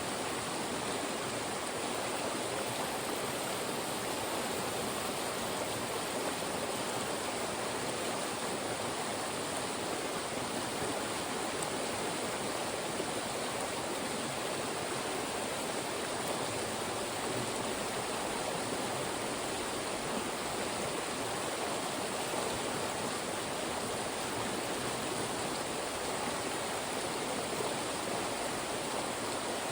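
Fast-moving mountain stream rushing through narrow rock funnels: a steady, unbroken rush of water.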